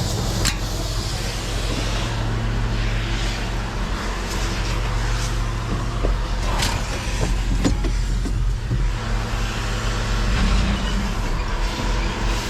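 Pickup truck's engine running steadily with a low hum, with a few light clicks and rattles.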